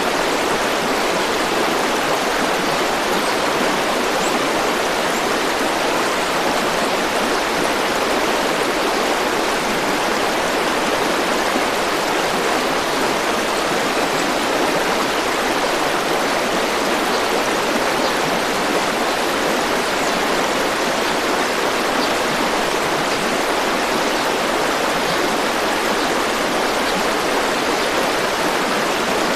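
A river or stream rushing and splashing with a steady, unbroken sound.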